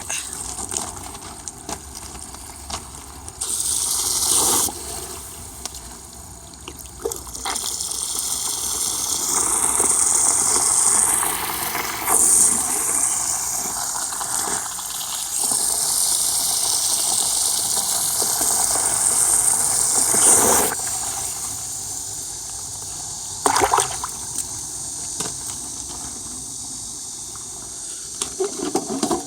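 Stream water pouring into an earthenware jar, a steady rush of water that swells louder and drops back several times as the flow shifts.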